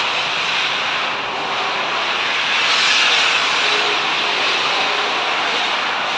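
Electric hand dryer blowing steadily, a loud even rush of air.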